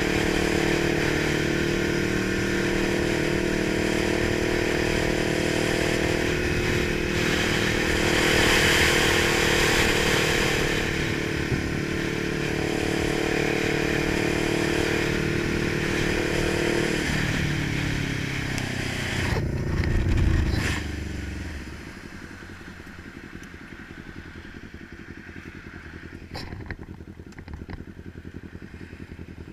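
Kawasaki 900 motorcycle engine running steadily, then dropping in pitch and dying out after about seventeen seconds, with a heavy low thump as it stops. After that only a faint background remains, with a few light clicks near the end.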